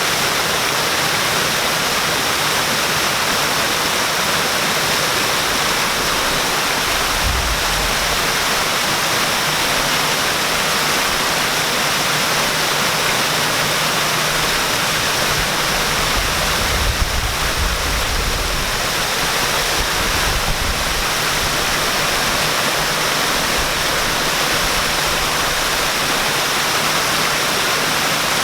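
Waterfall pouring in a steady, dense rush of falling water. A few brief low rumbles break in about a quarter and about two-thirds of the way through.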